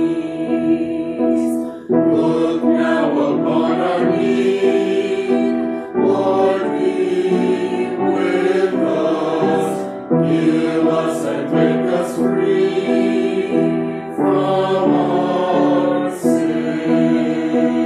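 Church choir singing in sustained chords, phrase after phrase, with short breaks for breath every few seconds.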